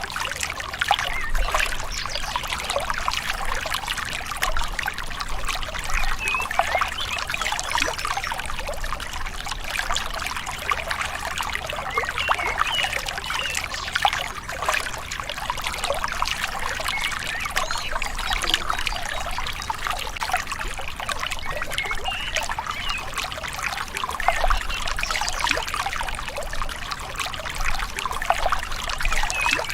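A gentle river trickling and gurgling steadily, with a busy patter of small bubbling sounds.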